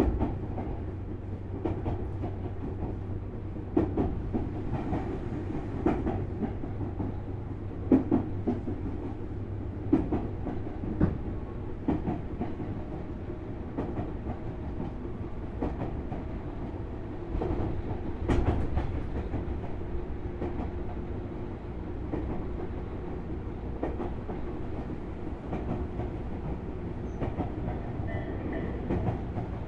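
Running sound of a Tobu Railway Series 6050 electric train, heard from inside its motor car: a steady low rumble with the wheels knocking over rail joints every second or two.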